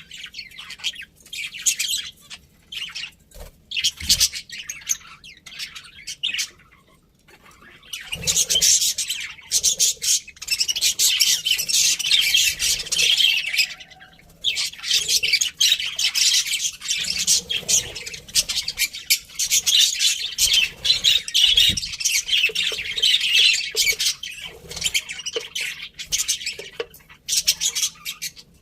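A flock of budgerigars chirping and chattering. Separate calls come at first, then after a short lull the birds break into dense, continuous chatter for the rest of the stretch, with one brief dip in the middle.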